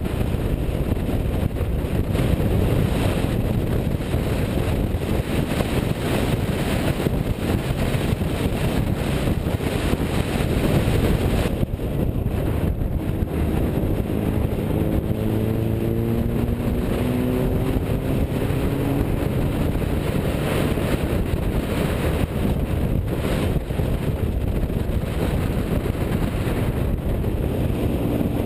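Classic car driving, its engine running under a steady rumble of road and wind noise on the microphone. About halfway through, the engine note rises steadily for several seconds as it accelerates.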